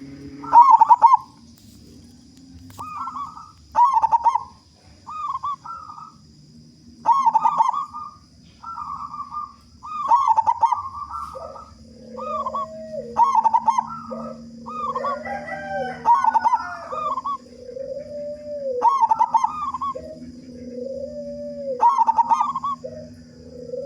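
Zebra doves (perkutut) cooing: short arched phrases repeated every second or two, and from about halfway through a second, lower-pitched cooing answers between them. A faint steady high tone runs underneath.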